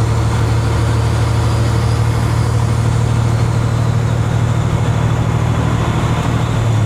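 Kenworth W900 semi truck's diesel engine running steadily, a constant low engine tone with road or cab noise over it.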